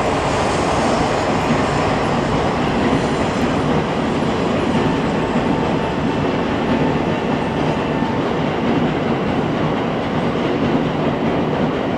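Shinkansen bullet train moving along the station platform: a steady, loud rolling rumble, with a faint steady whine from about five to eight seconds in.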